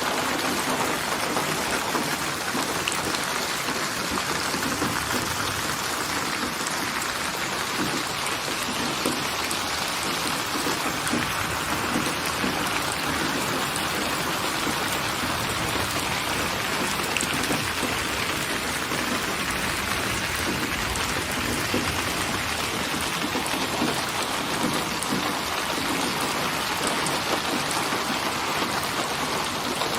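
Steady rain falling: an even, unbroken hiss of drops that keeps the same level throughout.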